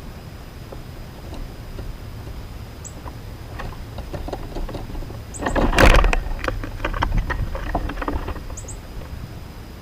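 Outdoor sound at a backyard bird feeder: short high bird chirps three times over a low steady rumble, and a loud burst of rustling about six seconds in, followed by a scatter of clicks and knocks for about two seconds.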